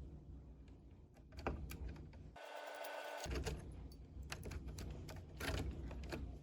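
Small clicks and taps of hand work on the wiring of an opened tube tester's socket, with a short hissing burst about two and a half seconds in.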